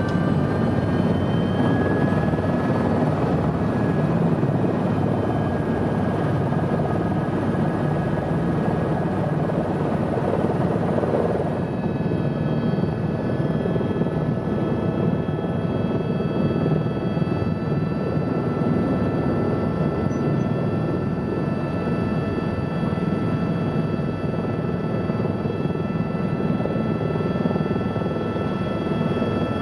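Airbus turbine helicopter running steadily in flight: a dense, constant rotor and engine rumble with steady high whining tones over it, which change about a third of the way through.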